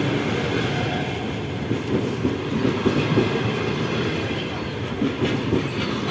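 A train running along the track close by, a steady loud rumble of wheels on rails.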